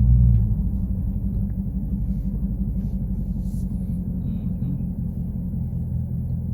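Car engine and exhaust with the mid-muffler deleted, a steady low drone while cruising, a little louder for the first half second.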